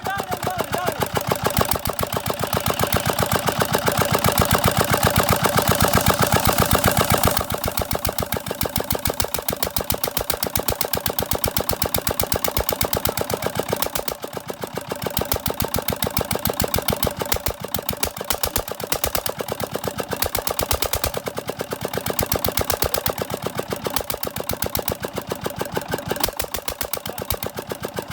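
Diesel engine running with an even, rapid train of firing pulses; louder for the first seven seconds or so, then settling a little quieter.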